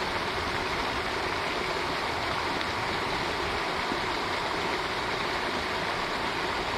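Steady rush and splash of water falling back from a pond's fountain, an even hiss with no break.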